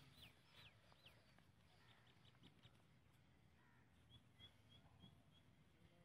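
Faint bird chirps: a run of about four high, downward-sweeping chirps in the first second, then a quick string of short, high chirps about four seconds in.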